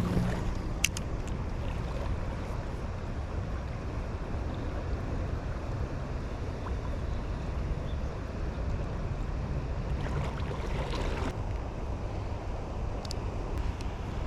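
Steady rushing of a shallow river's flowing water, heaviest in the low end, with a few faint clicks and a brief louder wash about ten seconds in.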